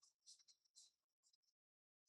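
Very faint, soft scratchy strokes of a paintbrush working paint, several in quick succession and stopping after about a second and a half.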